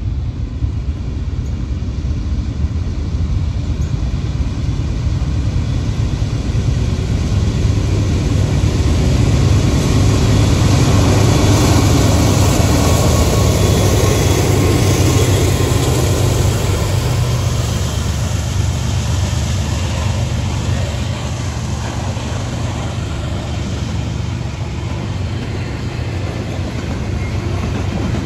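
Norfolk Southern diesel locomotives pulling a heavy intermodal train as they approach and pass, a deep engine rumble that builds to its loudest about halfway through. Near the end, the double-stack container cars rolling by on the rails take over as the engines fade.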